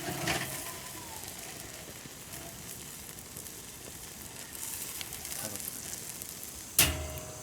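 Marinated pork ribs sizzling on a grill, a steady hiss with fine crackle, and one sharp clack near the end.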